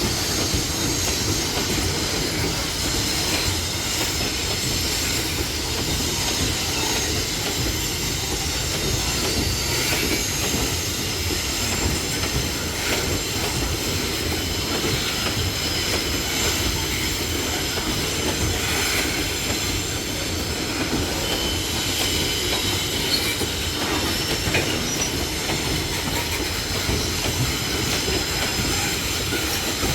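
Loaded freight wagons rolling steadily past on steel rails, with thin high-pitched wheel squeal over the rumble of the wheels and a few faint knocks.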